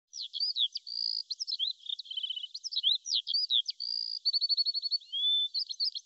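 A songbird singing a fast, varied song of chirps, whistled notes and short rapid trills, one phrase straight after another.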